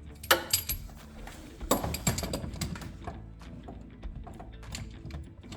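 Metal clicks and clinks of a 1/2 inch ratchet and socket working on a transmission fill plug, in two quick clusters about a third of a second and just under two seconds in, then scattered lighter clicks. Faint background music underneath.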